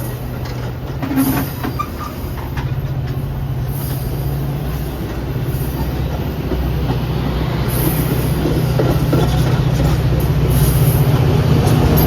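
Train on the line, a diesel locomotive's engine drone with rail noise, growing steadily louder.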